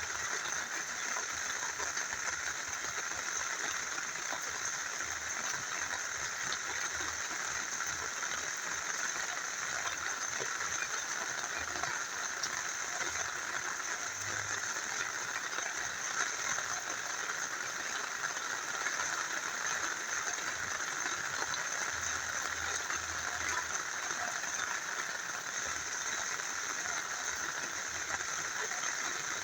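Rain falling together with a small river flowing: a steady, even rush of water with a fine patter of drops.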